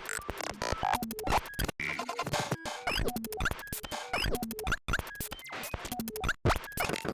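140 BPM electronic glitch groove: chopped, stuttering synth samples from a Dreadbox Typhoon analog synthesizer, with short pitched blips, quick upward pitch sweeps, clicks and sudden cut-outs repeating in a looped pattern.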